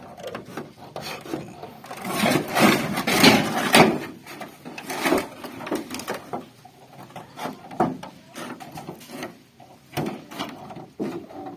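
Hand work on thin sheet metal from an old refrigerator: a spell of scraping and rubbing about two seconds in, then a few separate knocks.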